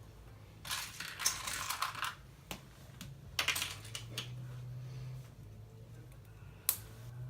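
Small plastic LEGO pieces clattering as they are rummaged through by hand: two rattling bursts of about a second each, then a single sharp click near the end.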